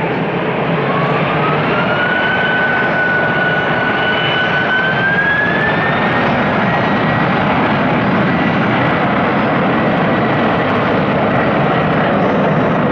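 Jet airliner's engines spooling up to takeoff thrust: a loud, steady roar with a whine that rises in pitch about a second in, rises again around six seconds, then holds.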